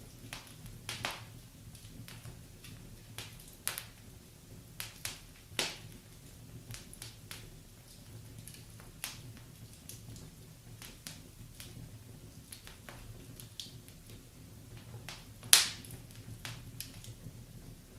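Wood fire crackling in a fireplace: irregular pops and snaps, one much louder pop late on, over a faint steady low hum.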